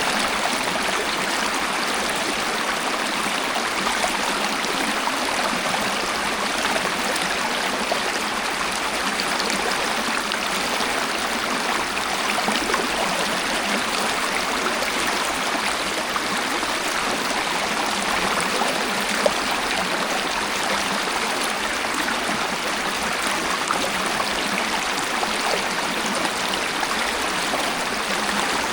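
Waterfall: water falling and rushing in a steady, even hiss that stays the same throughout, with almost no deep rumble.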